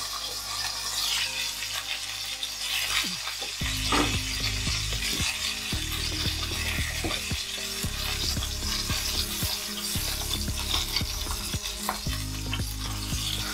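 Browned chicken thigh pieces sizzling steadily in a skillet in hot fat, the burner just turned off, with occasional clicks of chopsticks against the pan as the pieces are turned and lifted out.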